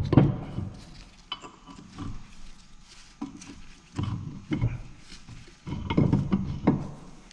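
Metal differential parts being handled and set in place: a series of separate clinks and knocks, some with a short low ring, as the carrier with its bearing races is worked toward the case.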